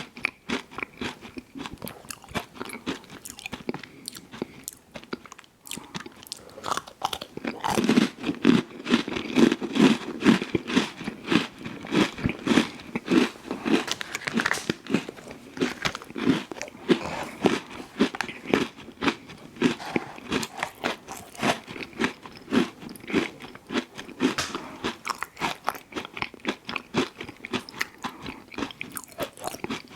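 Close-miked eating: a person biting and chewing an ice cream sandwich, with rapid wet crunching and chewing sounds. It is softer at first and louder and denser from about a quarter of the way in.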